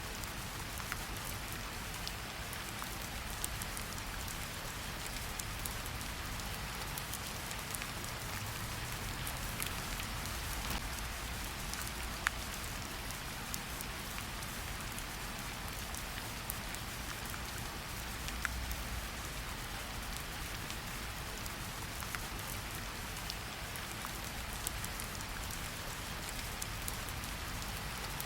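Steady rain falling in a forest, a continuous hiss with scattered louder drops ticking close by.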